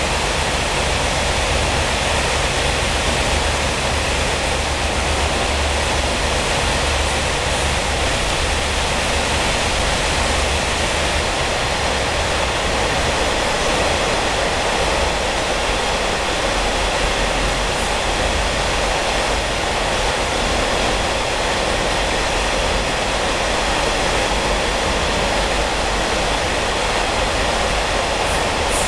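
Steady rushing roar of a Taiwan Railway ordinary-class passenger coach running at speed, heard from inside the carriage, with the echo of a tunnel. A few faint clicks come near the end.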